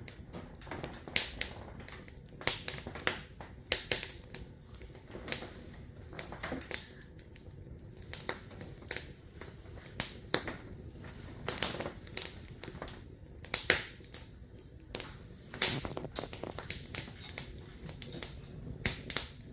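Burning firewood crackling and popping: irregular sharp snaps, sometimes several a second, over a low steady rumble.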